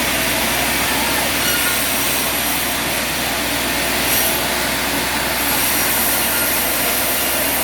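Sawmill machinery running steadily, a continuous loud mechanical noise with faint high tones that come and go.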